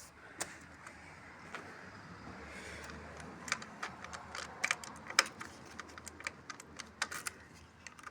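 Scattered light clicks and jingling of keys, irregular and growing busier after about three seconds; the motorcycle's engine is not yet running.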